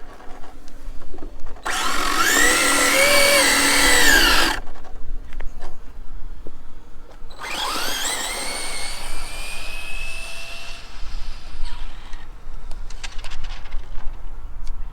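Losi 22S '69 Camaro 1/10 RC drag car's brushless electric motor whining. First comes a short burst of about three seconds that rises and falls. A few seconds later a full pass follows, its whine climbing steadily in pitch, then holding and fading away.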